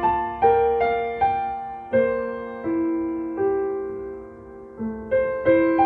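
Slow, gentle piano music: single notes struck a few at a time and left to ring and fade, with a brief lull about two-thirds of the way through.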